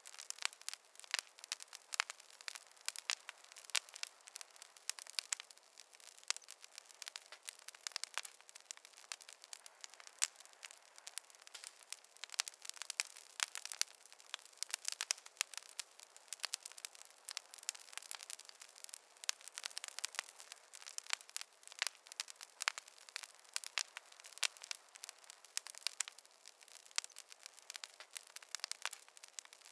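Wood logs burning in a fireplace, crackling with dense, irregular sharp pops and snaps, several a second, over a faint hiss.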